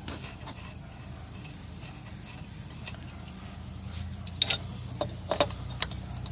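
Scattered light clicks and rubbing from hand tools and metal parts being handled while a shock absorber is fitted, over a low steady hum. A few sharper clicks come in the last two seconds or so.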